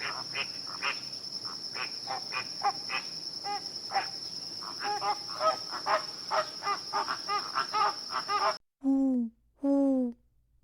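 Many birds calling in short, rapid notes over a steady high-pitched whine. Near the end the sound cuts abruptly to two louder, hooting calls, each falling in pitch.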